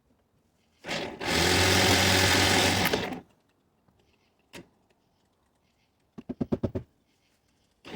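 A small motor runs loudly and steadily for about two seconds, then a short quick rattle of about eight rapid clicks follows a few seconds later.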